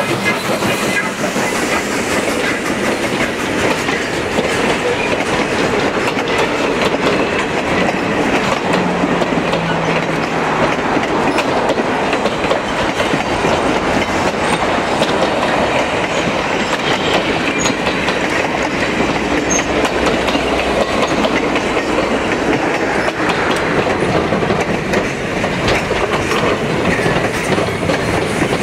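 Passenger cars of a steam-hauled train rolling past close by, the wheels clacking steadily over the rail joints.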